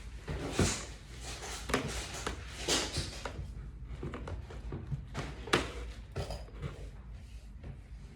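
Scattered knocks, clicks and short scraping sounds of things being handled, over a steady low hum.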